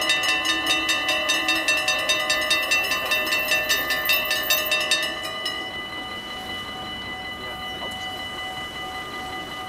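Two mechanical level-crossing bells on an automatic half-barrier crossing, ringing in fast, even strokes. About five seconds in the strokes drop away and the ringing carries on much quieter.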